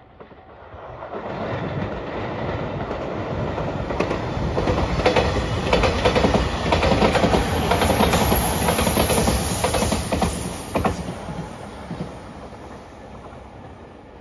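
JR Shikoku 8000 series electric limited express train passing close by at speed. Its wheels clack over the rail joints as the noise swells to a peak midway, then fades as it draws away.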